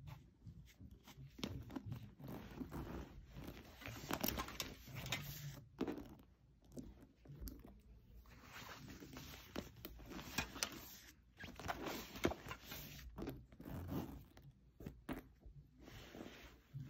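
Rummaging through a zippered coated-canvas and leather handbag: faint, irregular rustling and clicking of the bag, its zipper and the things inside being handled.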